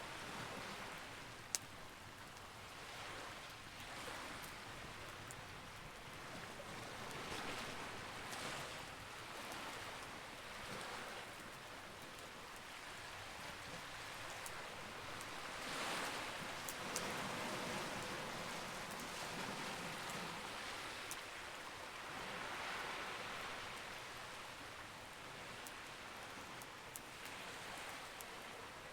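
Campfire burning: a steady rushing hiss that swells and fades every few seconds, with a few sharp crackling pops.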